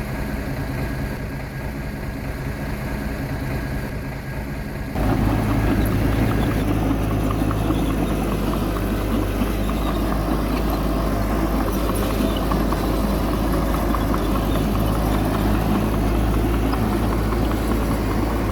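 Heavy diesel earthmoving machinery running, with a steady engine hum. About five seconds in the sound suddenly turns louder and rougher and stays that way.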